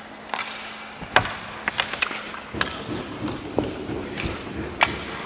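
Scattered sharp knocks and clacks of play, about six over a few seconds, the loudest about a second in and near the end, over a low rumble that starts about halfway through.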